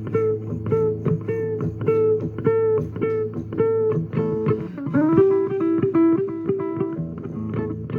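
Guitar playing an instrumental passage: a steady run of plucked notes, with a note slid up into a held pitch about five seconds in.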